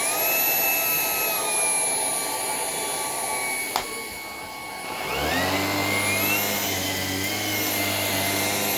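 Shark PowerDetect vacuum running with a steady high motor whine, with a single click near the middle. About five seconds in a deeper hum joins and the whine rises as the vacuum steps up its power.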